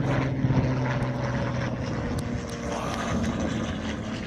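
An engine running steadily, its strongest drone fading after about a second and a half while a lower rumble goes on.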